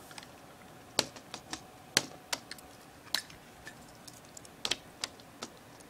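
Irregular sharp clicks and taps of an old IBM ThinkPad laptop's plastic case and parts being handled and pried at during a teardown.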